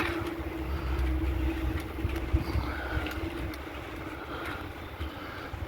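Bicycle rolling fast through a tunnel: low rumble of tyres and wind on the microphone, with a steady hum that fades out about halfway and a few light clicks.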